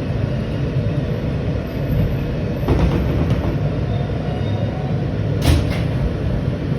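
New York City E express subway train running, heard from inside the car: a steady low rumble, with a few sharp knocks around the middle and a louder one near the end.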